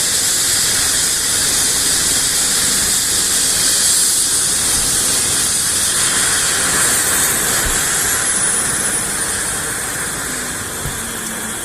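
Trauma helicopter's turbine engines hissing steadily, with a thin high whine that slides down in pitch partway through and the overall sound easing off near the end.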